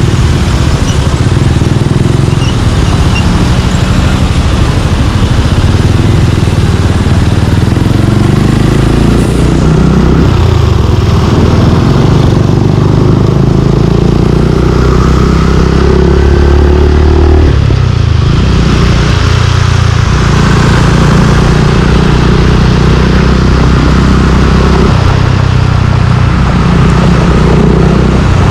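Suzuki Gixxer 155's single-cylinder engine running loud through an aftermarket exhaust while riding, its note rising and falling several times with the throttle.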